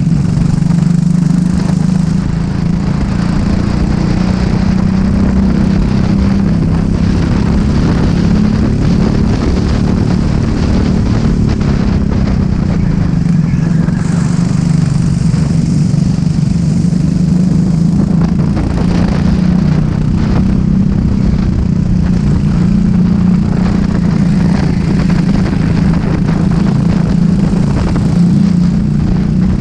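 Racing go-kart engine running hard at race pace. Its pitch wavers and dips a little a couple of times, around two seconds in and again near the middle, before climbing back.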